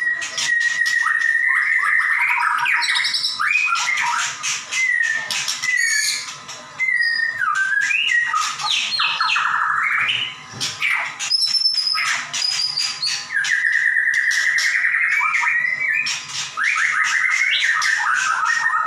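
White-rumped shama (murai batu) singing a loud, varied song without pause: clear whistles, fast rattling trills and sharp click-like notes, with rising and falling glides. This is the rapid, forceful "gacor nembak" singing that keepers use as a master recording to coax other shamas to sing.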